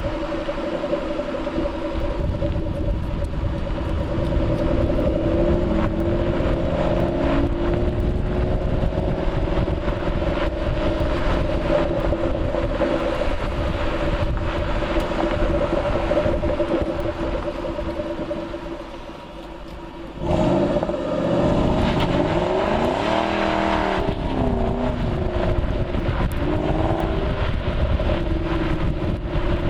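Ford Mustang Shelby GT500's V8 engine while driving, running steadily. About 18 seconds in it quiets as the throttle comes off, then about 20 seconds in it comes back sharply and climbs in pitch under acceleration.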